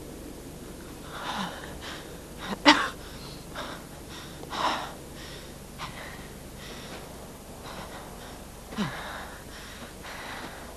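A woman gasping and grunting with effort as she strains to haul a heavy body: several short breaths and grunts a second or more apart, the loudest about a third of the way in.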